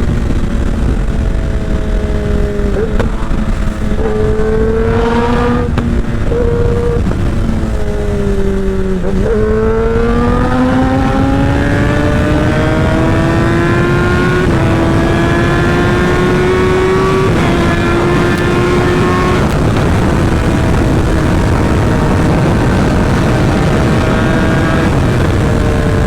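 Sportbike engine with a short SC-Project aftermarket exhaust, running at high speed. Its pitch falls and climbs several times with gear changes and throttle, over heavy wind noise on the microphone.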